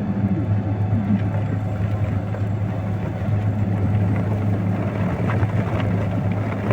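Engine of a snow-clearing vehicle running steadily with a low drone while it pushes through the snow.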